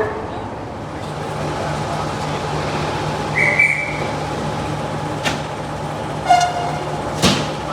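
Class 14 diesel locomotive idling with a steady low hum, a short high whistle about three and a half seconds in and a brief horn toot a little after six seconds, with two sharp knocks between them, as the train readies to depart.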